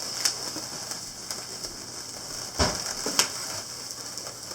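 Latex modelling balloon rubbing and crackling in the hands as it is pushed through a twist, with a few sharp clicks, the loudest about two and a half and three seconds in.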